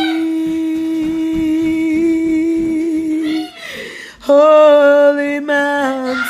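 A woman's voice singing unaccompanied in long wordless held notes: one steady note for about three and a half seconds, a short falling slide, then a louder held note a little lower.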